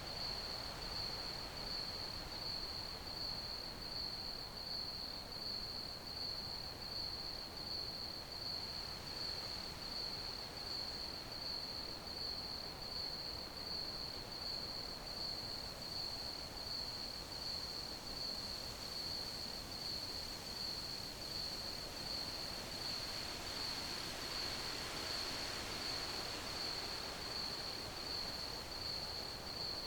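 Crickets chirping: a steady, high, evenly pulsing chirp that keeps up without a break, over a soft background hiss.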